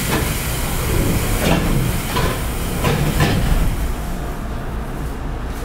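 Keikyu 800 series electric train (field-chopper control) heard from inside the car while running: a steady low rumble with a few clacks of the wheels over rail joints.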